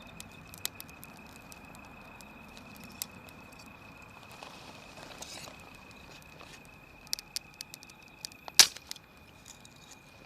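Wood fire crackling: scattered sharp pops and snaps at uneven intervals, with one much louder pop near the end.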